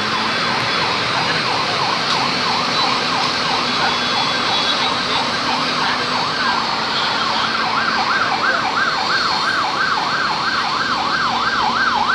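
Emergency vehicle siren in a fast up-and-down yelp, about two sweeps a second, faint at first and loud and regular from a little past halfway, over a steady background of noise and a low hum.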